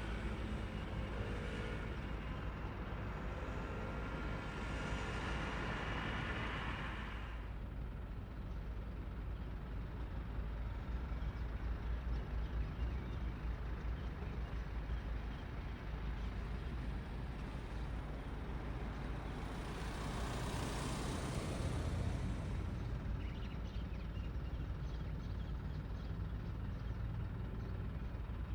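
Heavy diesel engines running with a steady low rumble. A hiss lies over it for about the first seven seconds and again around twenty seconds in.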